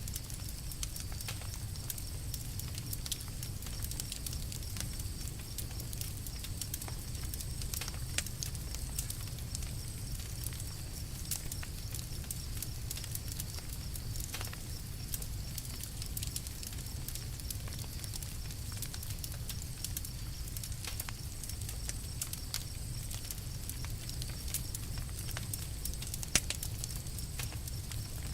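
Campfire burning with a steady low rumble and scattered sharp crackles and pops, a few of them louder.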